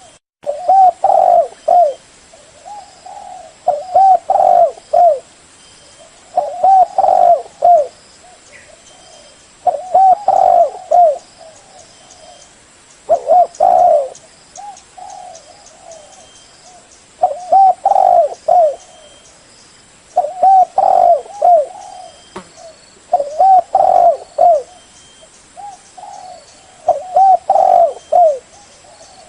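Spotted dove cooing: a loud phrase of several rolling coos, repeated about every three seconds, with softer coos in between.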